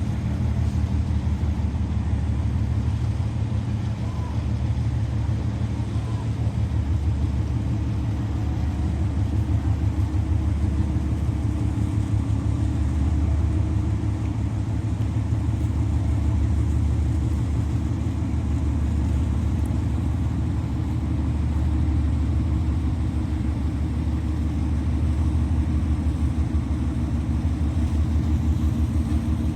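A large engine running steadily, a continuous low rumble that holds the same pitch throughout.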